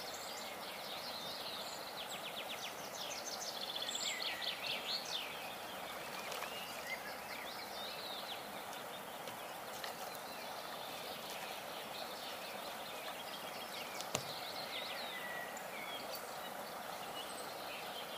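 Small birds singing over a steady outdoor background hiss: quick trilled phrases and chirps fill the first few seconds, then scattered calls. One faint click about fourteen seconds in.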